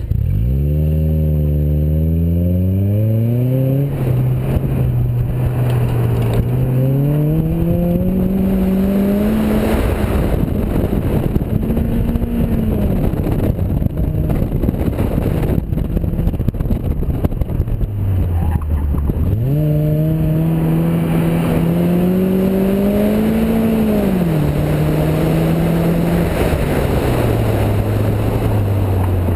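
Car engine on an autocross run: a hard launch with revs climbing fast, then revving up and down through the course, with the revs dropping low and climbing again about two-thirds of the way through. A heavy rush of wind and road noise runs under it.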